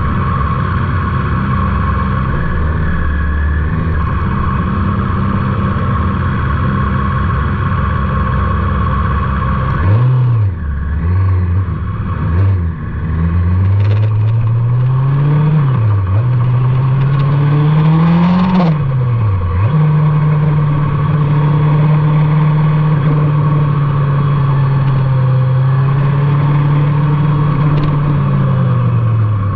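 Motorcycle engine heard on board. It runs steadily for about ten seconds, then its revs rise and drop several times through gear changes. From about twenty seconds in it holds a steady note, then eases off near the end.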